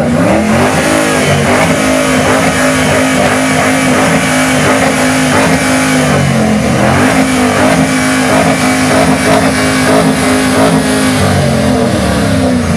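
Car engine revved up and held at steady high revs for an exhaust loudness test, dipping briefly about six seconds in and climbing back, then falling away near the end.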